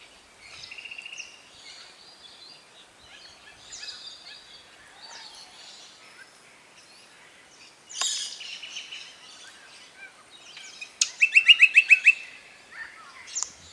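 Wild birds calling in bushland: several high-pitched calls and fast trills of repeated notes, including a sharp call about eight seconds in and a loud run of about ten quick notes near the end.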